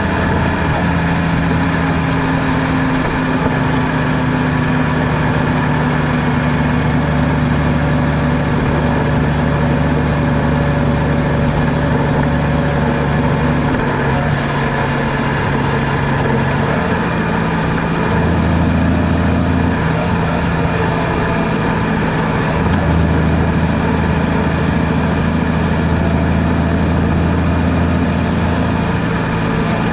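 Car engine running while driving, over steady road noise. The engine's low note changes and fades about halfway through, then comes back in steps a few seconds later as speed changes.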